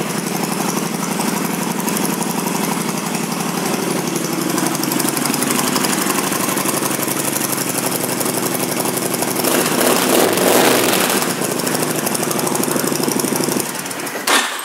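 Honda VTX1300 V-twin cruiser engine running through aftermarket exhaust pipes, idling steadily with a louder stretch of throttle about ten seconds in. It shuts off near the end, followed by a sharp click.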